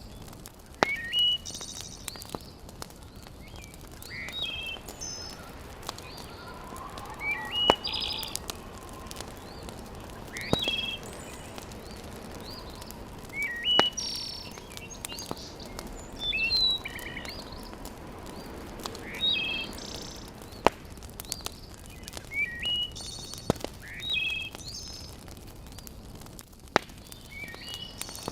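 Wood fire crackling in a fireplace, with scattered sharp pops, under a steady hiss. Birds chirp short, repeated phrases every few seconds over it, and the chirps are the loudest sounds.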